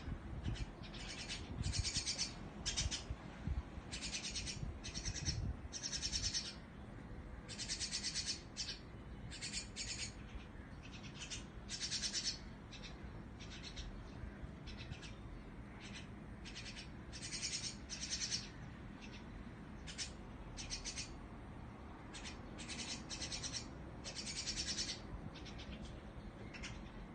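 Birds chirping, a run of short high calls repeated irregularly, several in quick succession at times, over a low rumble in the first few seconds.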